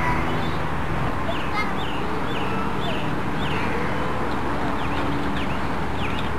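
Small birds chirping: many short, falling chirps, repeated irregularly, over a steady low hum.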